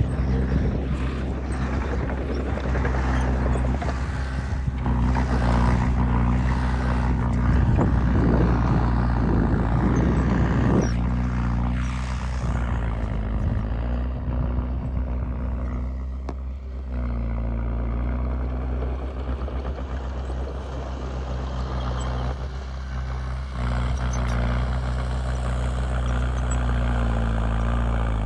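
Heavy diesel earthmoving machinery running steadily, with rougher rumbling and clattering noise layered over the engine for several seconds early on, and the engine note shifting near the end.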